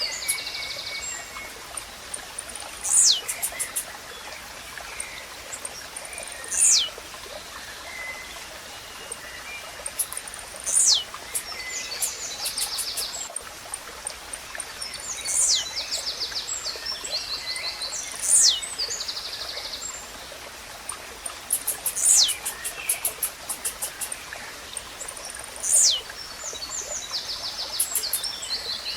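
Blue-black grassquit (tizil) song repeated about every four seconds: a sharp high note falling steeply, with rapid buzzy ticking trains between, over a steady hiss of running water.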